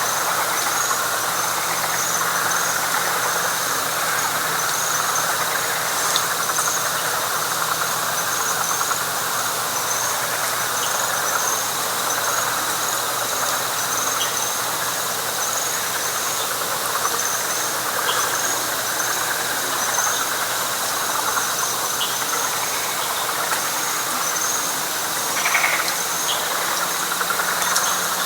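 Night chorus of frogs calling together: a dense steady chorus, with a high-pitched trill pulsing about twice a second and a faint low hum underneath.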